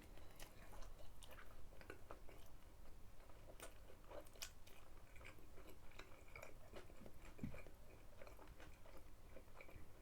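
A person chewing a mouthful of a McDonald's Double Jalapeño Chicken burger close to the microphone: faint, irregular chewing with small crunchy clicks.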